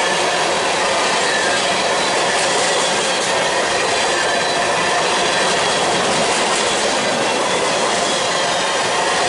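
Freight train of covered hopper cars rolling past close by: a steady, loud rumble and hiss of steel wheels on rail, with faint thin squealing tones from the wheels.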